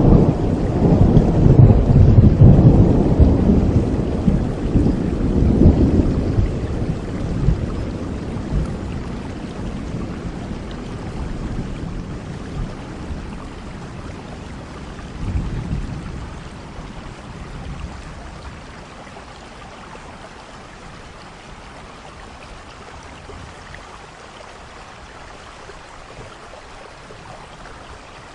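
Thunderstorm: a long, loud roll of thunder that slowly dies away, a shorter rumble about halfway through, and steady rain falling throughout.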